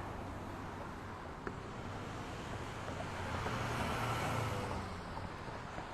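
Road traffic noise picked up by a car's dashcam: a steady hum and rush of passing traffic that swells and fades again past the middle.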